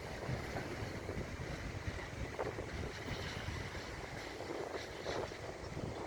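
Heavy downpour in strong wind, with gusts buffeting the microphone in uneven low rumbles over a steady hiss of rain.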